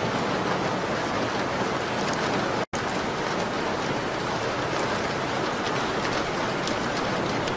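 Steady rain on window glass, an even dense hiss with faint scattered ticks of drops. The sound cuts out completely for an instant about two and a half seconds in.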